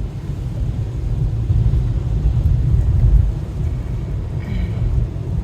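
Low, uneven rumble of a car driving, heard from inside the car.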